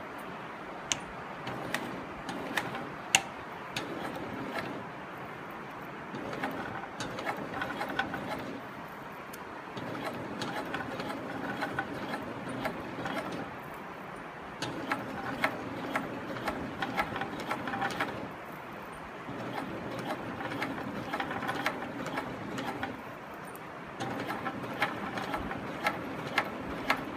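SewPro 18365-10 high-post walking-foot industrial sewing machine stitching slowly through heavy, wire-like thread. It sews in several runs of a few seconds each, stopping briefly between them, with a few sharp clicks in the first seconds.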